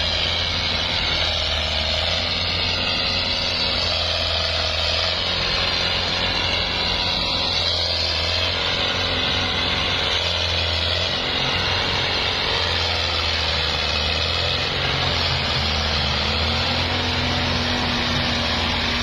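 Ford tractor engine running steadily.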